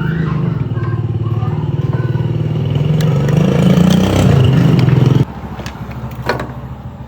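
Tractor engine running, speeding up a little about three to four seconds in, then cutting off suddenly about five seconds in. A single sharp clatter follows.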